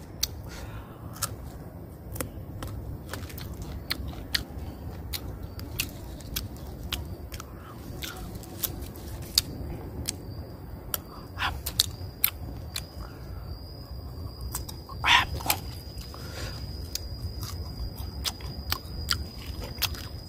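Crunching and chewing of a crisp, unripe green guava, with many irregular sharp crunches.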